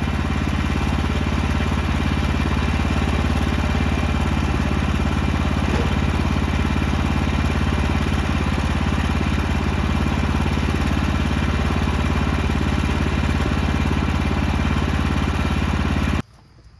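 Small gasoline engine of a portable bandsaw sawmill running steadily, driving the band blade through a wide red oak log. The sound stops abruptly near the end.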